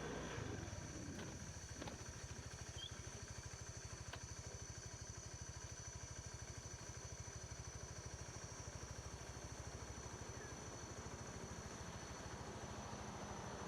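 Motorbike engine running steadily under way, with an even low pulsing beat, and a few faint clicks in the first few seconds.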